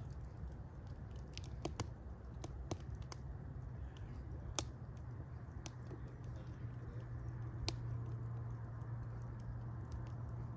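Fire crackling: scattered sharp pops and snaps over a steady low rumble, with louder snaps about two, four and a half, and eight seconds in.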